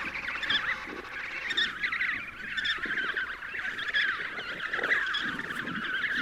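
A colony of penguins calling all at once: a dense, unbroken din of many overlapping short calls.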